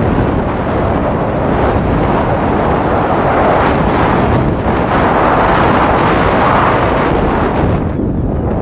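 Strong wind rushing over the microphone of a camera moving fast through the air. It makes a steady, dense noise that eases a little near the end.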